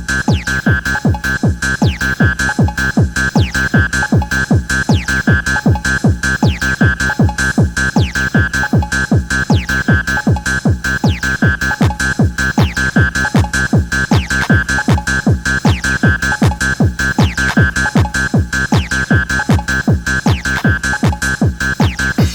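Bouncy techno dance music: a fast, steady kick drum on every beat under a repeating high synth riff.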